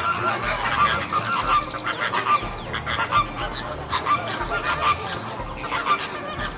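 A flock of flamingos honking, with many short calls overlapping densely throughout.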